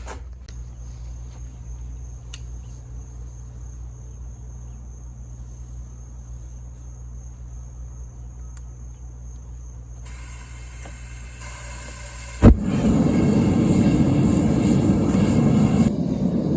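A gas burner being lit: a hiss of gas starts about ten seconds in, a sharp pop of ignition follows a couple of seconds later, and then the flame runs with a steady loud roar. Before that there is only a low steady hum.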